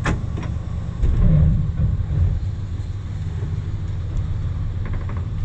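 A 1973 Ford F100's 302 V8 engine running with a steady low rumble, swelling louder for about a second starting a second in as the truck is pulled forward.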